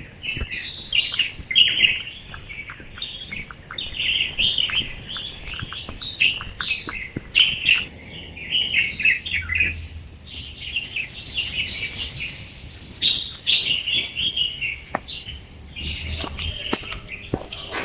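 Many small birds chirping and twittering together in a dense, continuous early-morning chorus of short, high calls.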